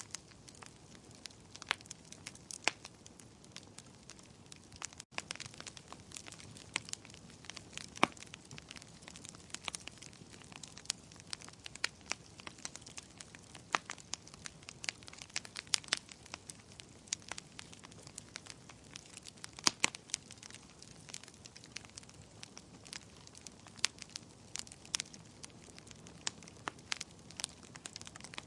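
Bonfire crackling: wood popping and snapping in irregular sharp cracks, some louder than others, over a soft steady hiss.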